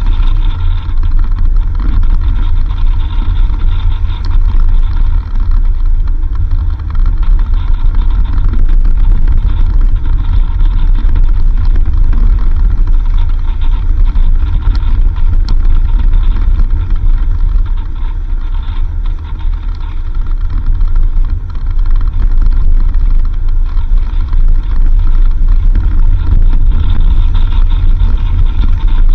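A motor vehicle driving along, heard as a loud, steady low rumble of engine and road noise that eases slightly about two-thirds of the way through.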